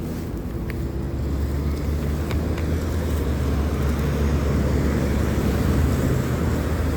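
Steady low rumble of wind and road noise while riding a bicycle, slowly growing louder, with a few faint clicks.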